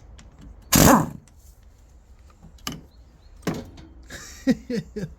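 A loud clunk about a second in, then a few sharp clicks and a run of short squeaky scrapes near the end: metal parts being handled and shifted while the gearbox is being worked on.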